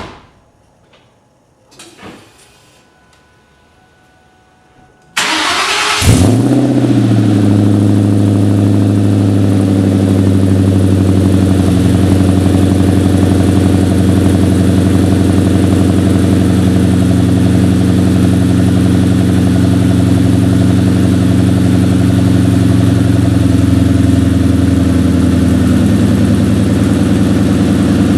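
2003 SVT Cobra's supercharged 4.6-litre DOHC V8 through a Magnaflow cat-back exhaust with MAC Prochamber: cranked over about five seconds in, it catches with a short flare of revs, then idles steadily. Before the start, a sharp click and a couple of faint knocks.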